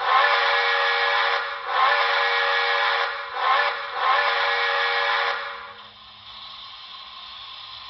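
A steam locomotive chime whistle played through the small speaker of an HO-scale model's Paragon4 sound decoder, blowing the grade-crossing signal: long, long, short, long. It stops about five and a half seconds in, leaving a fainter steady background hiss.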